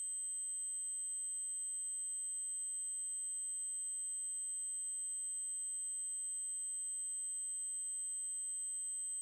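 Electronically generated 8192 Hz triangle-wave tone, steady and very high-pitched, holding one unchanging pitch and level.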